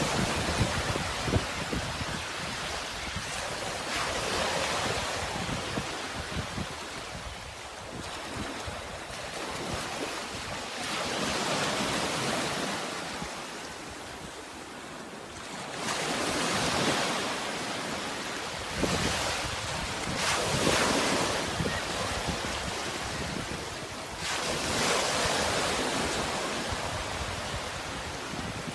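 Sea waves breaking and washing in, swelling in slow surges every few seconds, with wind buffeting the microphone.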